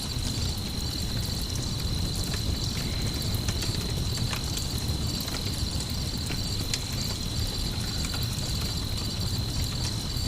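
Crickets chirping steadily in a fast, pulsing trill, over the low rumble of a campfire with scattered small crackles.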